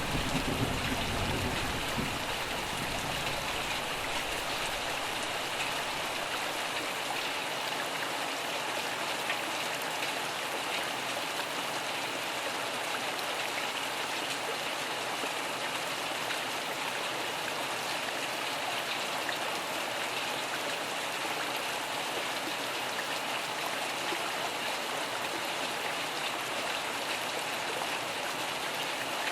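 Steady rain, an even hiss of drops, with the last of a thunder rumble dying away in the first few seconds.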